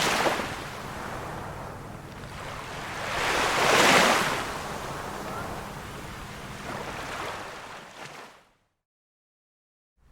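Small waves on a calm sea washing and breaking in slow swells, the biggest about four seconds in, over a faint low hum. Near the end the sound cuts out to dead silence for about a second and a half.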